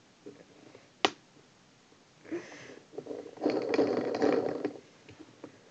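Handling noise: one sharp click about a second in, then rustling and a crackly scraping lasting about a second past the middle, as the parts of a homemade spinning model and its rubber drive belt are worked by hand.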